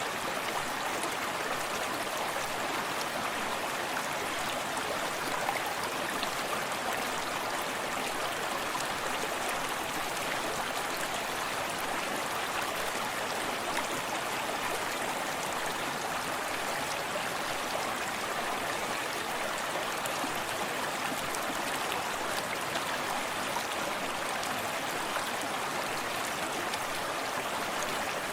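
Forest stream running steadily over stones, a continuous rush of water with small splashes and trickles.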